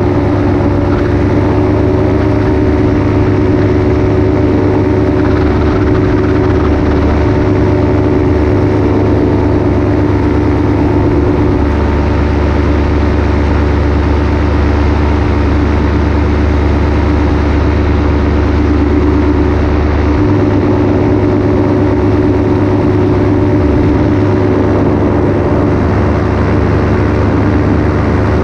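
Paramotor engine and propeller running steadily in flight, one even tone that holds throughout.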